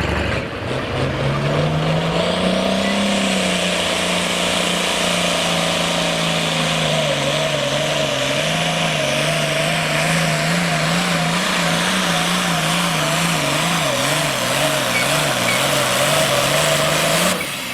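Hot stock pulling tractor's diesel engine at full throttle, dragging the weight sled down the track. The engine note climbs in the first couple of seconds, holds steady with a slight wavering, and drops off sharply near the end as the tractor finishes its pull.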